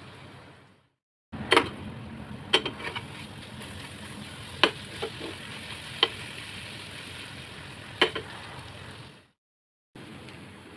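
Marinated chicken pieces frying in hot oil, a steady sizzle, with a few sharp knocks against the pan spread through it. The sound cuts out completely twice, briefly: once about a second in and again near the end.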